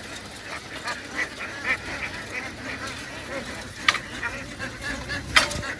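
A large flock of ducks quacking and calling continuously, many overlapping short calls. Two sharp knocks stand out, about four and five and a half seconds in.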